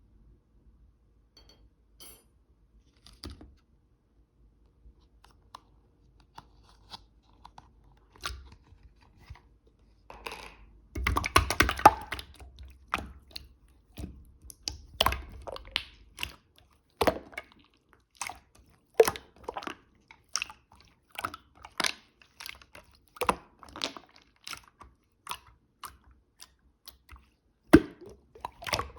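White slime being squeezed and pressed by hand. For the first ten seconds there are only a few faint clicks, then a dense stretch of squishing and crackling, followed by a run of sharp pops and crackles about once a second.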